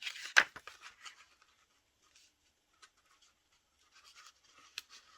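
Paper cut-outs being handled and worked against each other on a table: light scratching and rustling, with one sharp click about half a second in and a few small ticks later.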